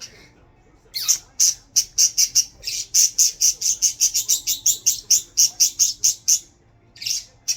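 Budgie giving a rapid run of short, sharp, high chirps, about five a second, which breaks off briefly near the end and then picks up again.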